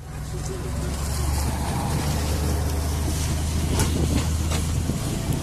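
Miniature railway train pulling away, heard from a carriage: a steady low engine hum with the rattle of the carriages on the track and a few sharp clicks around the middle.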